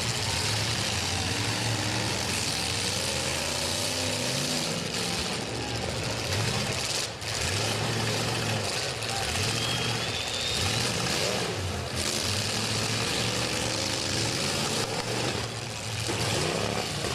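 V8 demolition derby car engines revving up and down, several at once, over a steady loud din.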